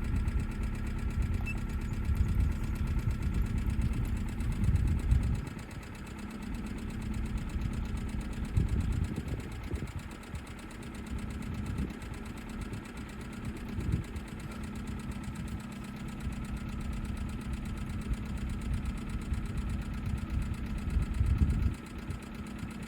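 Hyundai Getz 1.6 four-cylinder petrol engine idling unevenly, with several brief louder swells. It is misfiring on cylinders 2 and 3 with the check engine light flashing, which the owner puts down to stale fuel after long sitting.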